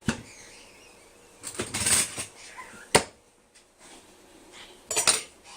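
Kitchen handling sounds: a brief rustle and a few sharp clicks and knocks, as dishes are handled while leftover pie is got out to be warmed.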